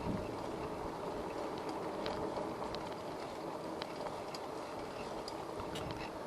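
Steady rolling noise of a bicycle being ridden on pavement, from the tyres and drivetrain, with scattered light clicks.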